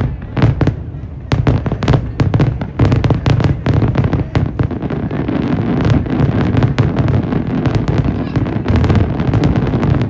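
Fireworks going off in a dense string of sharp bangs, several a second, over a continuous low background din.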